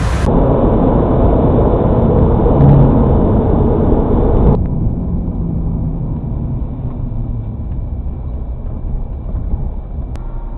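Road and wind noise of a car driving, heard from inside. About four and a half seconds in it drops suddenly to a quieter, steady hum.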